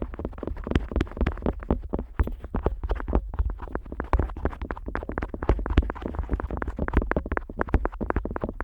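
An otoscope rubbing, pressing and flapping against the silicone outer ear of a Neumann KU100 dummy-head microphone, heard right at the ear. It makes a dense run of quick scratchy clicks over a low rumble.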